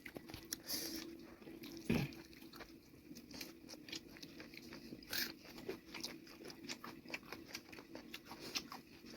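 Close mouth sounds of someone eating a chicken leg piece: quiet chewing and biting with many small wet clicks, and a louder single sound about two seconds in and again about five seconds in.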